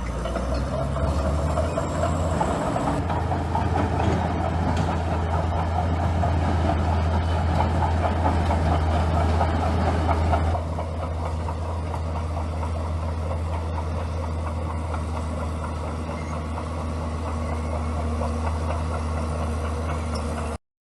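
Bulldozer's heavy diesel engine running with a steady low drone, louder for about the first half, then settling to a lower, even run. The sound cuts off abruptly near the end.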